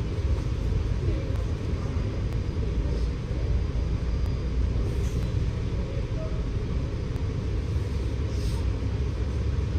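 Scania K94UB bus on the move, its engine and running gear giving a steady low rumble.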